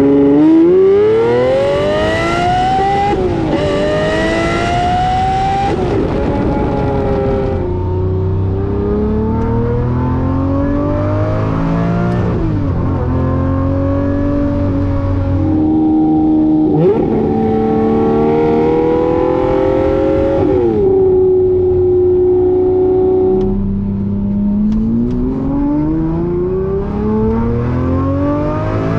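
Lamborghini Murcielago SV's 6.5-litre V12 accelerating through the gears: its pitch climbs, drops sharply at each shift and climbs again. It settles to a steady cruise for a couple of seconds, then pulls again near the end.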